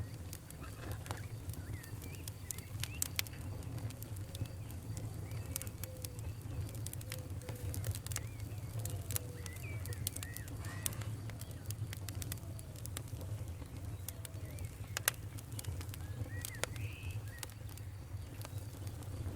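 Wood fire in a fireplace crackling, with sharp irregular pops over a low steady rumble. Faint short whistling chirps come and go throughout.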